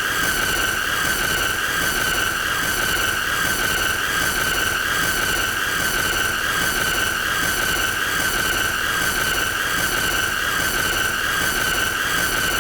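A continuous, loud, high-pitched squealing tone with shrill overtones, holding one pitch that wavers slightly, over a rough hiss.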